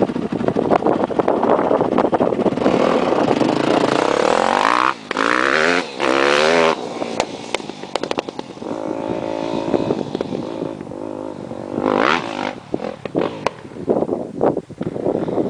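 Yamaha YZ250F dirt bike's four-stroke single-cylinder engine revving up and down as it is ridden, the pitch climbing under throttle. The sound drops out briefly twice about five seconds in, then climbs in another rev near the end.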